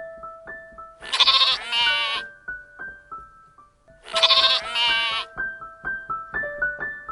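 A gentle electric piano melody plays single notes throughout, while an animal calls twice, each call about a second long with a quavering pitch.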